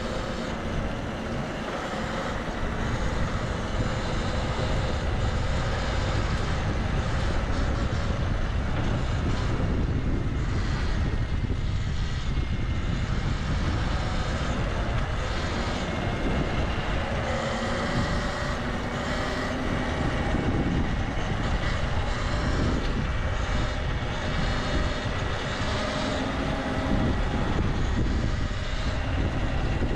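Steady wind rush and traffic noise picked up by a bike-mounted action camera while riding through city streets, strongest in the low end, with faint engine tones from passing vehicles.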